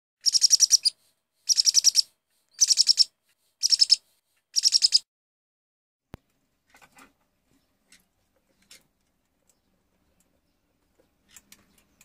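A bird chirping in five quick trills about a second apart, each a rapid string of high chirps, stopping about five seconds in. A single sharp click follows, then only faint ticks.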